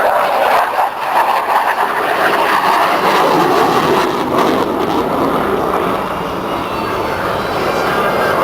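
Aerobatic propeller plane's engine running loud and steady on a low pass.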